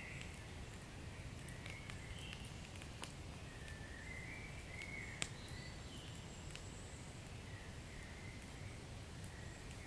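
Wood fire burning with a steady low rumble and scattered sharp crackling pops, the loudest about five seconds in. Faint wavering high whistles come and go through it.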